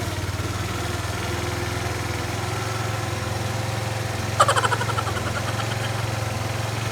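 Kymco Like 150 scooter engine idling steadily, with a short pulsing buzz about four and a half seconds in.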